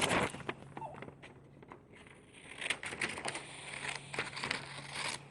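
Scissors cutting a sheet of paper: scattered snips and paper rustling, sparse at first and more frequent after about two and a half seconds.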